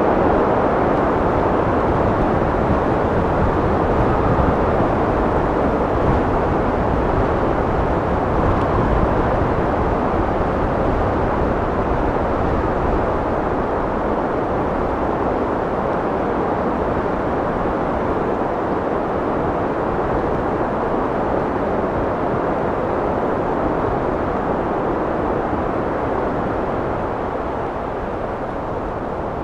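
Wind blowing steadily, a dense even rush of noise that slowly eases a little toward the end.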